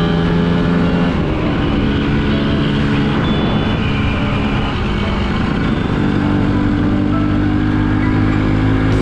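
Suzuki X4 motorcycle engine running while riding at road speed, under steady wind and road noise. The engine note shifts a little over a second in and again about six seconds in.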